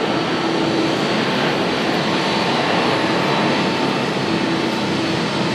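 Boeing 737-500's CFM56 turbofan engines at takeoff thrust: a steady jet roar with a steady humming tone running through it.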